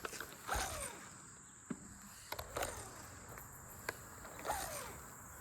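Steady high insect drone, with an animal call that falls in pitch repeating about every two seconds and a few sharp clicks.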